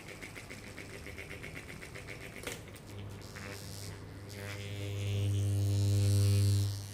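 Noisy ceiling fan running: a steady electrical motor hum with a quick, even ticking during the first half. About two-thirds through, a much louder buzzing hum builds up and then cuts off sharply near the end.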